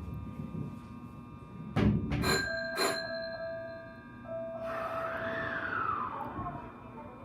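Hanshin train's electric signal bell between conductor and driver, struck twice in quick succession with a ringing tone after each strike: the two-stroke 'chin-chin' departure signal. Then a fainter tone rises and falls.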